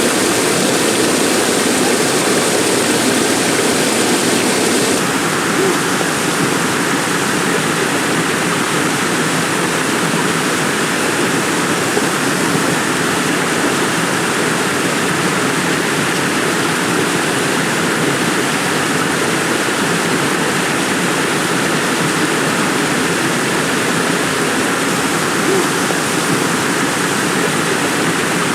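Heavy rain pouring steadily, a dense even hiss. About five seconds in the sound changes, with less high hiss and more weight in the middle range.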